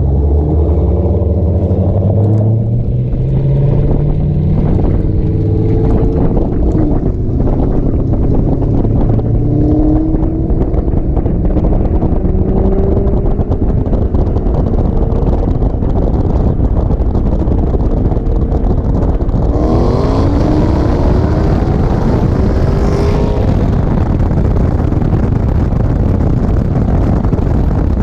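Car engine accelerating from a roll with heavy wind and road noise, heard from inside the moving car. About twenty seconds in, the revs climb in a quick run of rising pitches.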